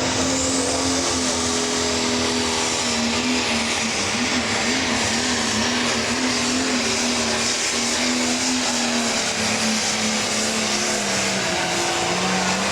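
Pro Stock pulling tractor's turbocharged diesel engine running hard under load during a pull. Its pitch wavers and sags briefly near the end.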